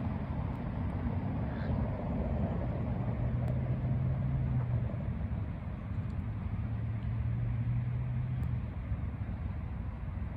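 Steady low outdoor rumble, with a low hum rising out of it twice for a couple of seconds each time.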